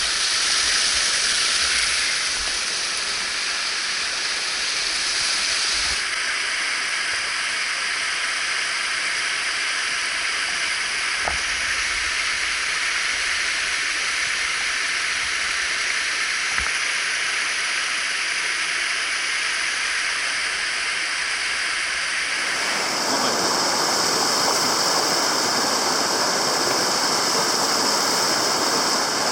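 Rushing water of a mountain stream, a steady hiss of flowing and falling water. The sound shifts abruptly about six seconds in and again near the end, where the water turns fuller and slightly louder.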